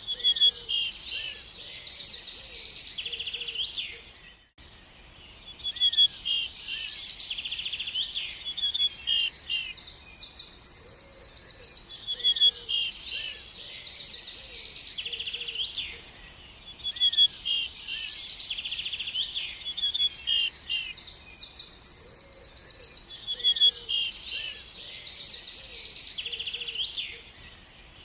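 Songbirds singing: dense rapid trills and chirping notes, high-pitched. The same passage of song repeats almost exactly about every 11 seconds, with a brief lull between repeats.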